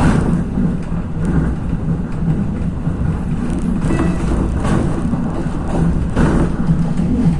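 Regionova diesel railcar under way, heard from inside the carriage: a steady low rumble of engine and wheels on the rails, with a few brief knocks from the track.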